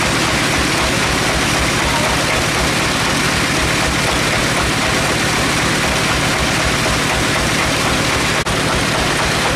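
Sawmill machinery running steadily, an engine-driven motor with a low, even throbbing under a dense hiss of noise. It breaks off for an instant near the end.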